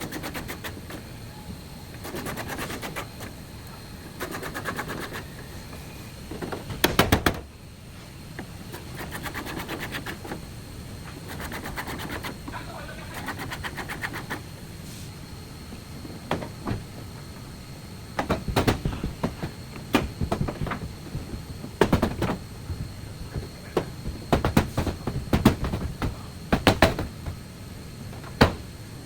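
Workshop knocking and tapping from body repair work: a quick rattling run of strikes about seven seconds in, then irregular sharp blows through the second half.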